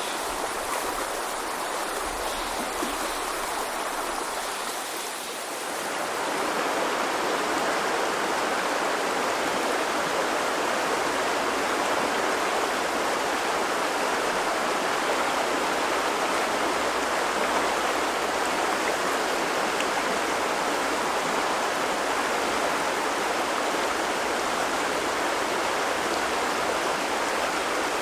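The Azusa River, a mountain stream, running over stones with a steady rushing babble. About five seconds in it briefly softens, then comes back louder and fuller.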